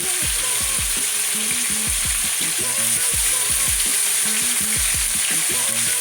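Quail pieces frying skin side down in a deep pan of dark caramelized sugar, with a steady sizzle as the skin browns.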